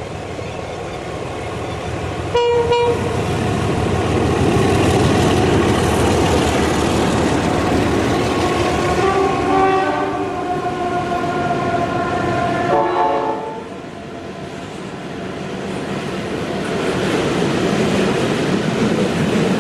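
Heritage passenger train running past, with 36 class steam locomotive 3642 and a diesel locomotive on the train: a steady rumble of wheels and locomotives, two short horn toots about two seconds in, and a longer chord-like horn blast from about nine to thirteen seconds. The rumble drops off at about fourteen seconds and builds again as the steam locomotive comes close.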